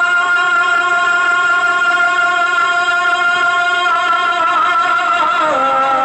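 A male voice singing a naat, holding one long note that steps down in pitch near the end.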